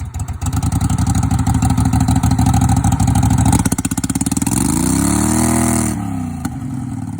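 Cub Cadet lawn tractor's small gasoline engine running loud with a fast, uneven firing beat. About four and a half seconds in it revs up and falls back down, then settles to a lower level.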